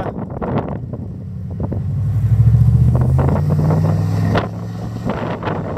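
A vehicle engine running close by, growing louder for a couple of seconds with its pitch stepping up partway through, then easing off, over wind buffeting the microphone.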